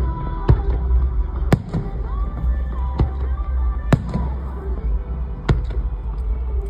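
Aerial fireworks shells bursting: about five sharp bangs at uneven intervals of one to one and a half seconds, over a steady low rumble, with music faintly underneath.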